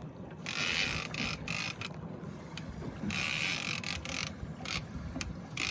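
Big-game fishing reel whirring in three spells of about a second each, with clicking between them, as line works on and off the reel during a fight with a shark.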